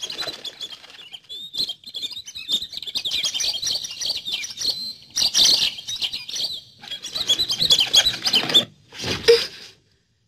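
Small cartoon birds chirping and twittering in quick high calls, with a few short breaks, and a brief lower sound near the end.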